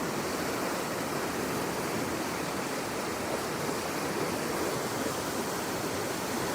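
Floodwater rushing by in a steady, even flow.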